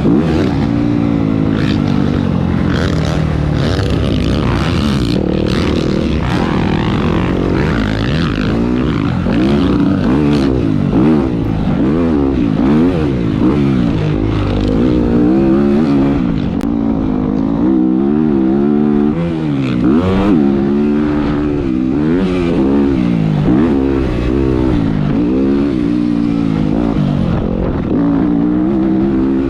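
Motocross bike engine heard from an onboard camera, its pitch rising and falling over and over as the throttle is opened and closed and the gears are worked around the track.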